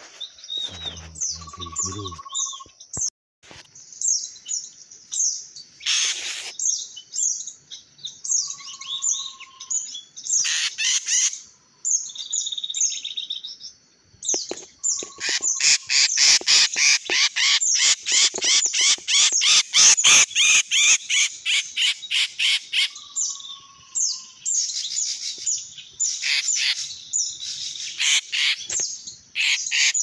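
Small birds chirping rapidly and high-pitched, the chirps growing denser and louder about halfway through. A short, lower whistle sounds four times among them.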